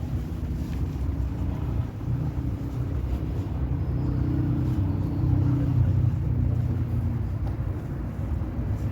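Low engine rumble of a motor vehicle, swelling to its loudest about halfway through and easing off.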